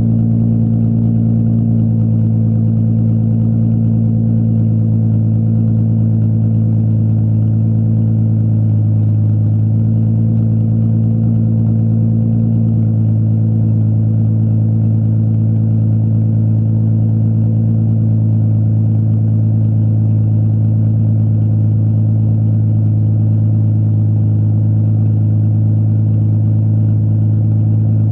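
Straight-piped Infiniti G35's 3.5-litre V6 running steadily through a test-pipe exhaust with a single-exit muffler, loud and unmuffled, holding one pitch throughout.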